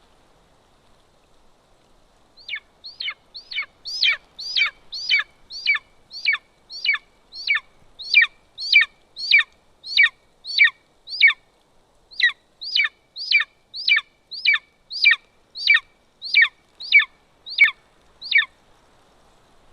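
Golden eagle calling: a long series of about 28 thin, high, downslurred yelps, evenly spaced at a little under two a second, starting a couple of seconds in and stopping near the end.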